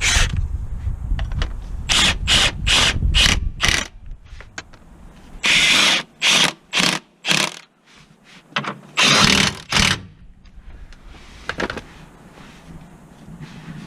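A cordless power tool run in a series of short trigger bursts, about a dozen in three groups.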